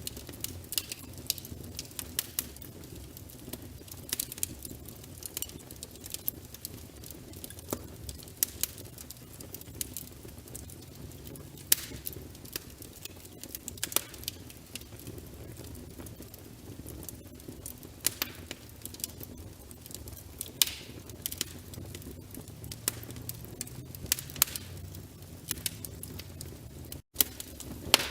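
Burning logs in a fireplace crackling, with frequent sharp pops and snaps over a steady low rumble of the flames. The sound cuts out for an instant near the end.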